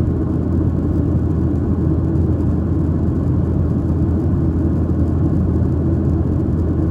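Steady low rumble of a Boeing 737-800's CFM56 turbofan engines and rushing air, heard from inside the passenger cabin.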